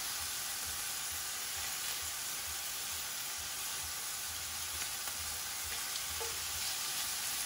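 Shrimp sizzling steadily in hot oil in a cast iron pan as they are turned over with tongs, with a few faint ticks from the tongs.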